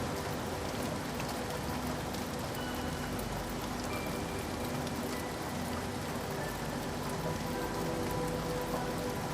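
Steady rain falling on a surface, an even hiss dotted with individual drop ticks.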